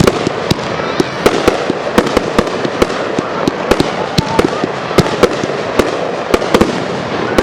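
Fireworks display: a rapid, irregular string of sharp bangs, several a second, over a continuous crackling din.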